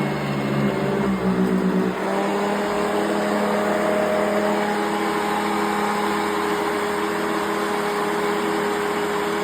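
A 1992 Eureka ESP upright vacuum cleaner's motor running steadily with a whirring hum, its pitch shifting once about two seconds in.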